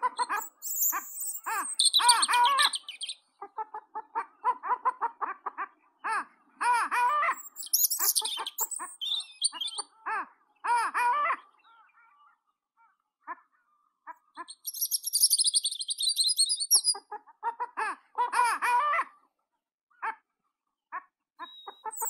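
Birds singing and calling in bursts of chattering, pitched phrases with short pauses between them, joined by a high, thin trill about fifteen seconds in.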